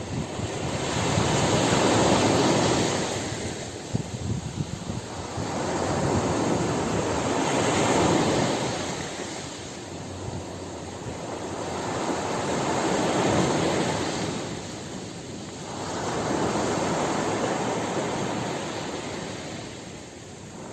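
Ocean surf: waves breaking in four slow swells of rushing noise, one about every five seconds.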